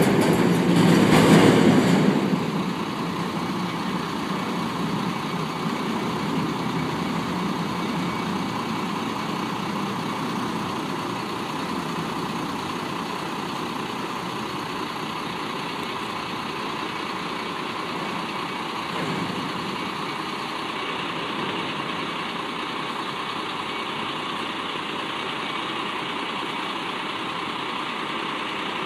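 Garbage truck engine running steadily, after a louder surge in the first two seconds.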